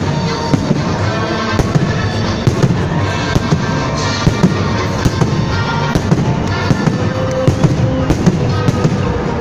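Fireworks salute: a rapid series of shell bursts and crackles, several bangs a second, with music playing underneath.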